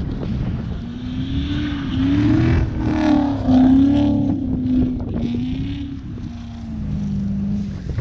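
An Audi quattro's engine revving up and down repeatedly, its pitch rising and falling, loudest midway, then easing off near the end. Rough low noise runs underneath.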